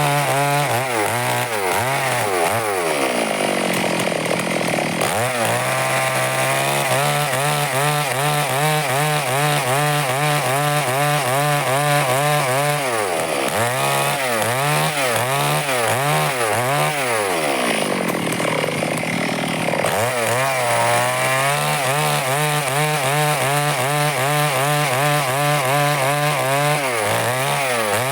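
Stihl chainsaw running under load as it cuts through wood, its engine pitch wavering constantly. Three times the pitch sags and then picks back up as the chain bogs in the cut.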